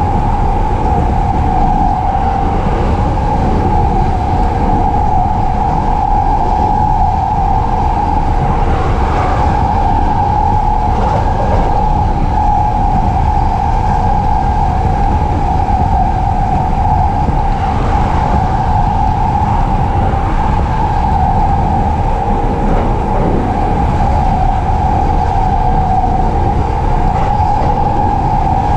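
JR East E233-series electric commuter train heard from inside while running at steady speed. A constant low rumble of wheels on rails sits under a steady droning hum.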